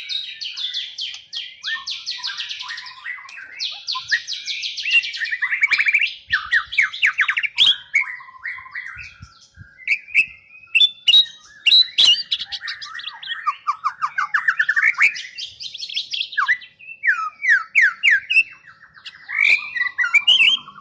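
A caged murai (magpie-robin or shama songbird) singing a long, varied song of fast trills, rattling runs and sweeping whistles, with short breaks between phrases.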